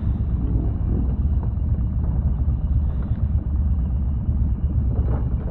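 Steady low rumble of a motorcycle engine running at idle or low speed.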